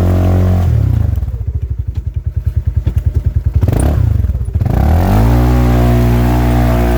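Polaris RZR side-by-side engine running steadily, then easing off about a second in to a slow, pulsing idle, and climbing back to a steady run after about five seconds.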